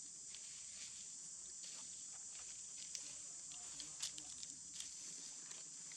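Steady high insect buzz, with scattered light taps and rustles, the sharpest about three and four seconds in.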